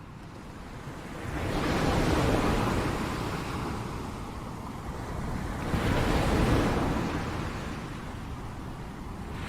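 Ocean surf: waves breaking and washing up the beach, surging twice, with low wind rumble on the microphone.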